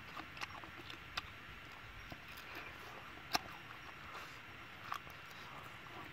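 Mouth noises of a man eating roasted chicken wings: open-mouthed chewing with lip smacks and scattered sharp clicks, the loudest about three and a half seconds in.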